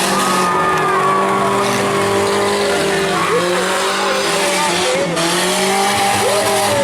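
Several compact trucks and vans in a demolition derby, their engines running and revving together over a noisy din. Pitches rise and fall as the engines are pushed and let off.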